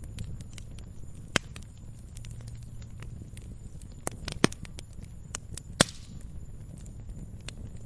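Wood campfire crackling: scattered sharp pops and snaps at irregular intervals, the loudest a few seconds in and about six seconds in, over a steady low rumble of the burning fire.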